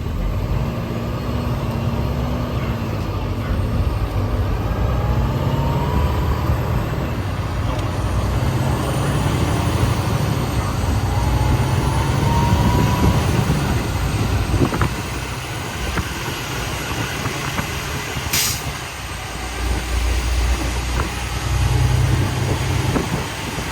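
Car-hauler semi truck driving, a steady low engine and road rumble, with one short hiss of air past the middle.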